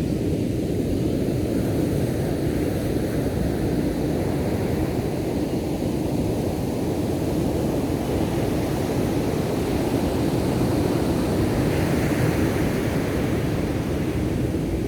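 Ocean surf breaking on the shore, a continuous rushing wash with wind buffeting the microphone; a wave swells louder about twelve seconds in.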